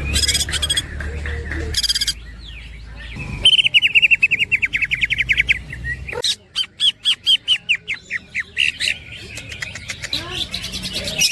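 Greater green leafbird (cucak ijo) singing in fast runs of short repeated notes, several a second, mixed with high chattering. These are the rolling, woodpecker-style phrases this songbird is kept and trained for.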